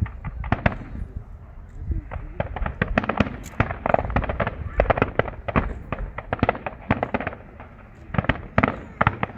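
Fireworks display: dense volleys of sharp crackling bangs and pops, coming in clusters with a short lull about three-quarters of the way through.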